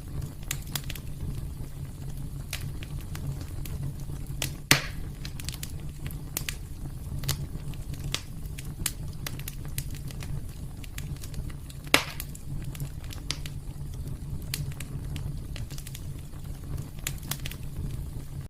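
Wood fire crackling steadily in a fireplace, with a low rumble of flame and many small snaps, and two louder pops about a third of the way in and past the middle.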